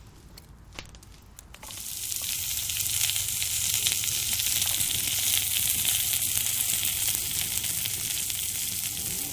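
Food frying in a hot pan: a few faint crackles, then about two seconds in a loud, steady sizzle starts suddenly as the food hits the heat.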